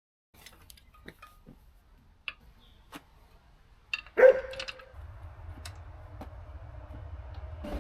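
A dog barks once, sharply, about four seconds in, after a few faint clicks and knocks. A steady low hum starts right after the bark and keeps going.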